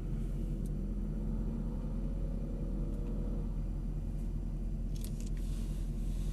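Mercedes SL63 AMG's 6.3-litre V8 idling with the car at a standstill, heard from inside the cabin as a steady low rumble. A few faint clicks come about five seconds in.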